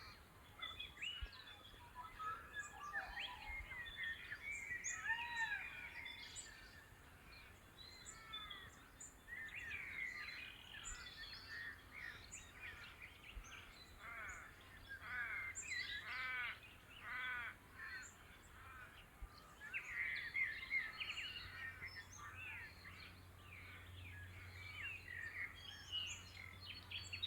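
Dawn chorus: several birds calling and singing at once, with many overlapping warbling and whistled notes.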